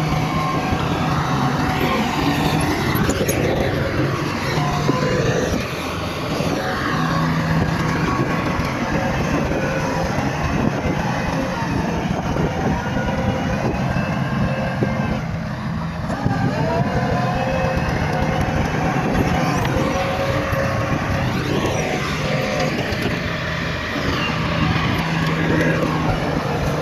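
Bulldozer's diesel engine running steadily under load, with higher whining tones that rise and fall over it.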